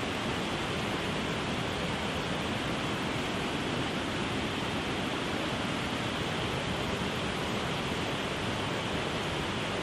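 Steady rush of flowing water, an even hiss without change.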